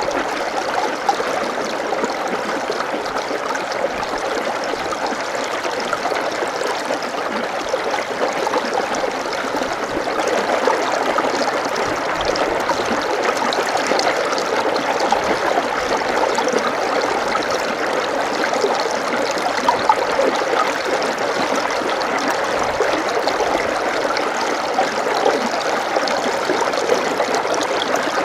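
Running water flowing steadily with a continuous babble, like a small stream.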